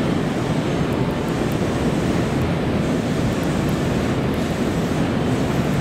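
Steady low rumble and hiss of a Nankai 1000 series electric train standing at a station platform, with its onboard equipment running, mixed with the platform's ambient noise.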